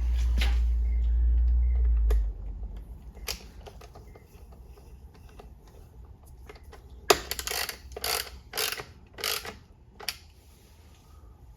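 Workshop tool and parts handling: a low hum for about the first two seconds, then scattered metallic clicks and a run of short rattling bursts between seven and nine and a half seconds in.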